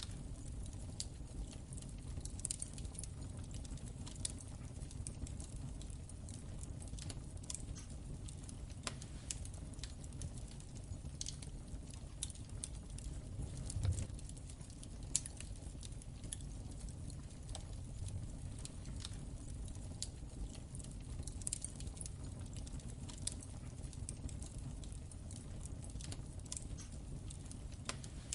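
Wood fire crackling in a fireplace: a low steady rumble of the burning with irregular small snaps and pops, a couple of louder pops about halfway through.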